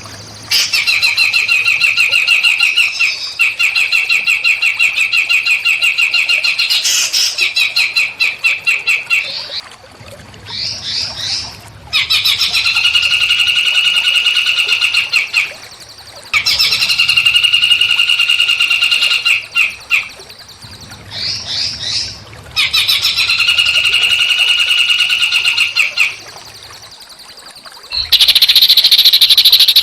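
Small songbird singing a rapid, buzzy trill in repeated phrases of three to four seconds, with short whistled up-and-down notes in the gaps. A harsher, hissing high call starts near the end.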